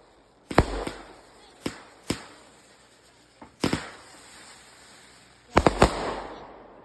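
Consumer fireworks going off: a string of sharp bangs at irregular intervals, each with a short echoing tail, ending in a quick cluster of three.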